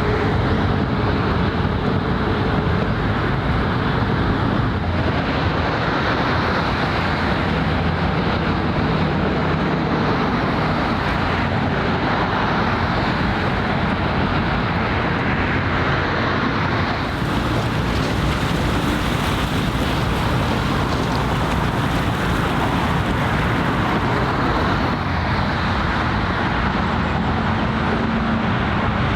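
Steady waterfront ambience: wind noise on the microphone mixed with road traffic and water, with a faint low hum running underneath.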